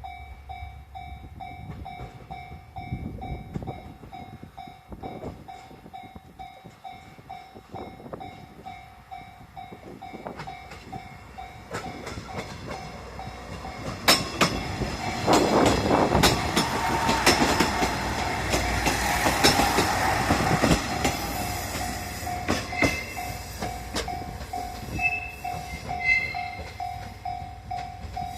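Japanese level-crossing warning bell ringing in a steady repeated ding throughout. About halfway in, a JR West KiHa 126 diesel railcar set passes over the crossing: its engine rumbles and its wheels clack over the rail joints, loudest for several seconds before easing off near the end while the bell keeps ringing.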